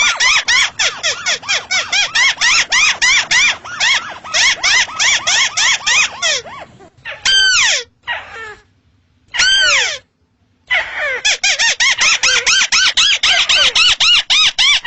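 A tikusan sawah crake calling: a rapid run of short, squeaky rising-and-falling notes, about five a second. About halfway through the run breaks off for two long calls that sweep downward in pitch, then the quick notes start again.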